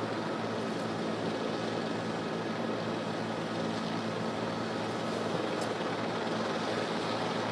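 Steady engine drone with a constant low hum, even throughout.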